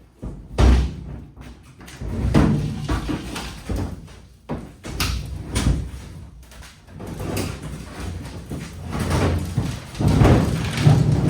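A series of irregular heavy thumps and bangs, some single and sharp, others grouped into rumbling clatters, loudest near the end.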